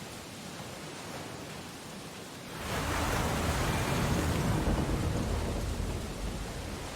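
Ocean surf: a steady wash of water, then a wave breaks about two and a half seconds in, a louder rush with a low rumble that slowly fades over the next few seconds.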